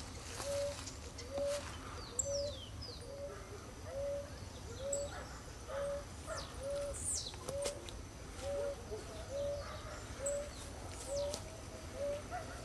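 Birds calling: one bird repeats a short, low whistled note steadily about twice a second, while a few high, quick falling chirps from other birds break in now and then.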